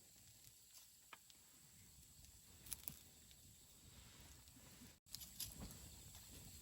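Campfire of burning wood crackling softly, with a few sharp pops from the burning wood, the loudest a little under three seconds in. The sound cuts out for an instant about five seconds in.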